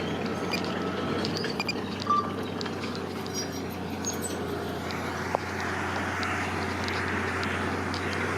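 Heavy construction machinery's diesel engine running steadily, with scattered light clicks and knocks over the drone.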